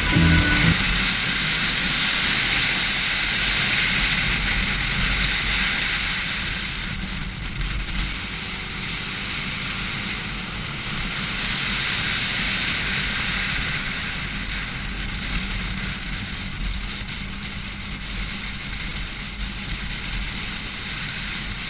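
Motorcycle on the move: steady engine rumble under loud wind rush.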